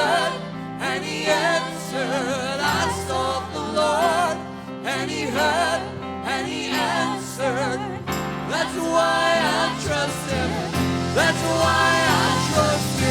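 Live worship band with sustained chords and a singer's wavering, drawn-out vocal phrases, sung without clear words.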